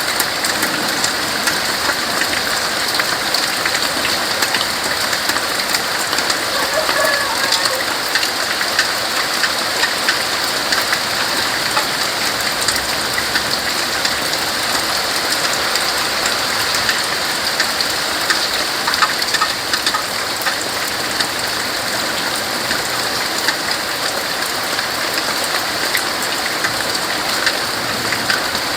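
Steady rain falling on tree leaves: an even, unbroken hiss of drops with many small ticks, holding the same level throughout.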